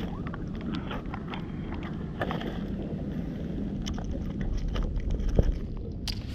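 Steady low rumble of wind on the microphone, with scattered small clicks and taps throughout and a slightly louder knock about five seconds in.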